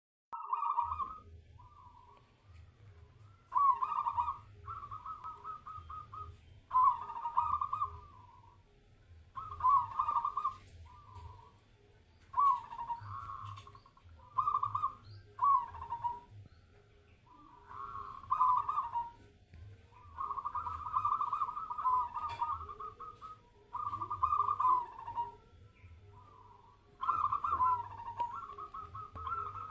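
Zebra dove (perkutut) cooing: short warbling coo phrases repeated every second or two, in runs, with a faint low hum underneath.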